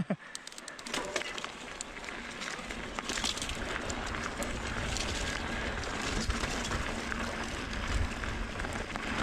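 Electric mountain bike riding down a dirt trail: tyre and gravel noise with scattered clicks and rattles. Wind rumble on the microphone builds from a couple of seconds in.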